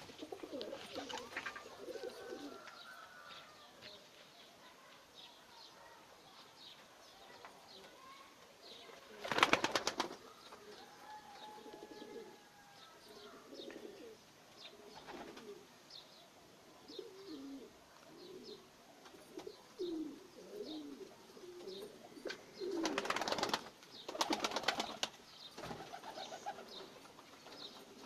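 Najafi fancy pigeons cooing repeatedly, with short bursts of wing flapping about a third of the way in and twice more near the end.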